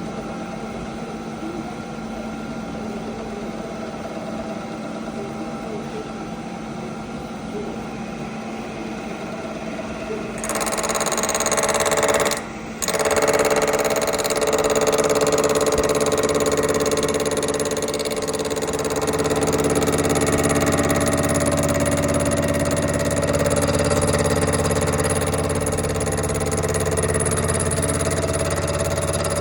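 Machine-shop cutting tool running steadily, machining the bearing-lock groove into a connecting rod's bearing bore. About ten seconds in it gets louder and brighter as the cut is taken, with a brief dropout just after.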